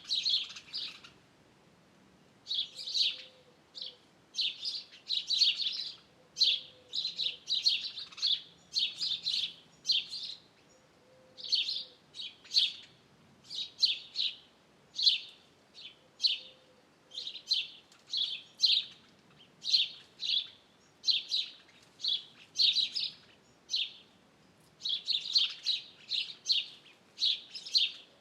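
Small birds chirping over and over: short, high chirps in quick clusters, one or two a second. A faint low call repeats every few seconds underneath.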